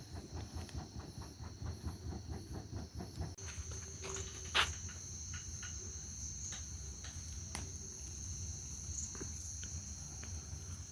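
Crickets chirring in a steady high whine, with a second, higher-pitched chirr joining about three seconds in. A few sharp clicks stand out, the loudest about four and a half seconds in.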